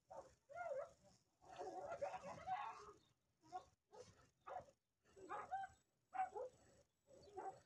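Stray dogs fighting, giving a series of short, pitched cries with gaps between them.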